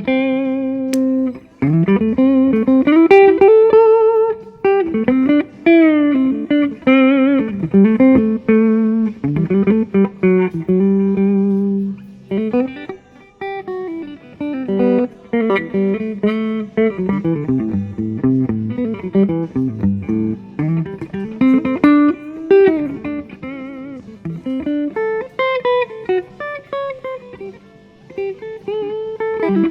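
Epiphone Les Paul Plus Top Pro electric guitar played through a clean Blackstar tube amp: a run of single-note licks with string bends and vibrato, broken by a few short pauses.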